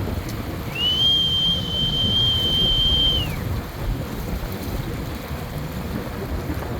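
A single long, steady high whistle lasting about two seconds, sliding up at the start and down at the end, over a constant rush of wind and water.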